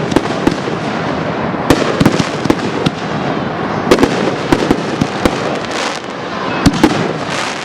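Fireworks display in full swing: aerial shells bursting one after another in sharp, irregular bangs, often several a second, over a continuous crackle.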